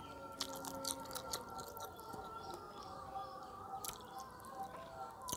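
Close-up wet chewing and sucking on pieces of fish head curry, with many short smacking mouth clicks, over faint steady background tones.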